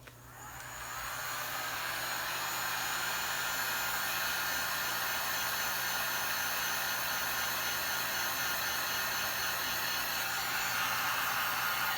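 Electric heat gun running, a steady blowing whir that rises over the first second or so and then holds level. It is heating the phone part to soften its adhesive.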